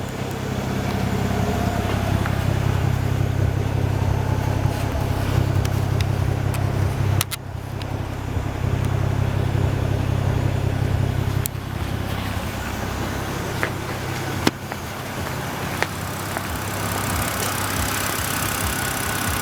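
BMW E90 328i's inline-six exhaust, fitted with a Detail Addict mid-pipe and Eisenmann race muffler, running with a steady low drone. The drone dips briefly about seven seconds in and drops in level about eleven seconds in. A couple of sharp clicks follow a few seconds later.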